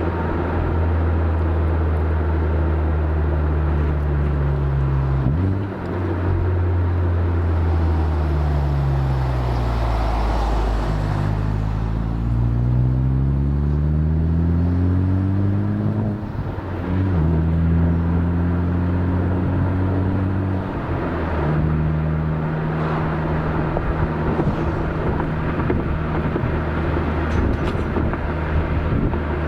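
Honda Civic Type R FK8's turbocharged four-cylinder heard through its exhaust (catted downpipe, aftermarket front pipe, stock catback) while driving. It holds steady revs, falls away, then climbs steadily through a gear. The pitch drops abruptly at each of several upshifts.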